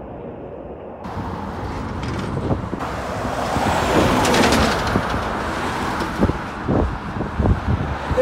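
A truck driving past, the noise building to a peak about four seconds in and then easing off. Several short low thumps come near the end.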